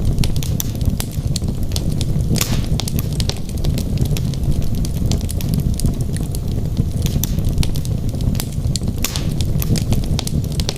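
Wood logs burning in a fireplace: a steady low rumble of flame with frequent sharp crackles and pops. Two louder snaps come about two seconds in and again about nine seconds in.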